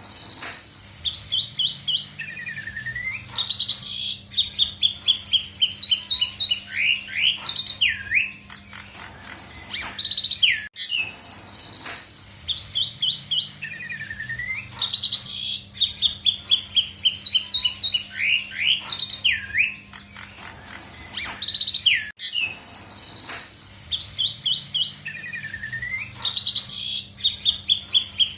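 Asian pied starling (jalak suren) singing a full, varied song of clear whistles, rapid runs of repeated notes and swooping up-and-down whistles, with mimicked phrases of other birds worked in. The same song sequence comes round about every 11 seconds, over a faint steady low hum.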